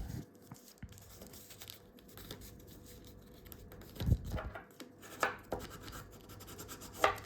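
Sheet of A4 paper being handled and folded, with several short crinkles and rustles as creases are pressed in, the clearest about four, five and seven seconds in.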